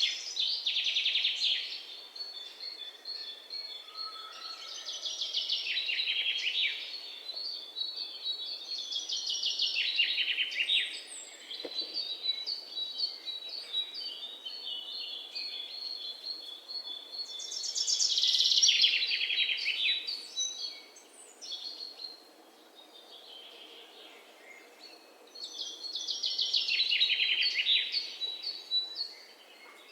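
A songbird singing loud, descending trilled phrases every several seconds, with softer chattering calls between them.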